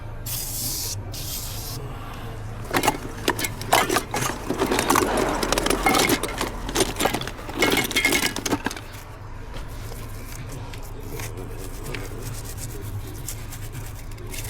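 Tools and metal parts clattering and scraping during a car battery replacement: a run of knocks, clicks and scrapes lasting about six seconds, starting about three seconds in. A steady low hum continues underneath.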